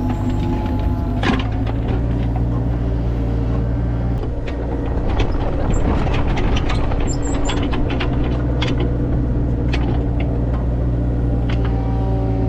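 An engine running steadily at a constant speed, with a scatter of sharp clicks and clanks over it, thickest in the middle.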